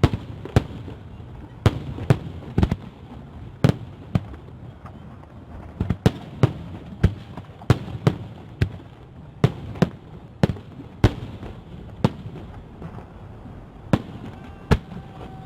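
Fireworks salute: a long run of sharp bangs, irregularly spaced at roughly one to two a second, over a steady low rumble.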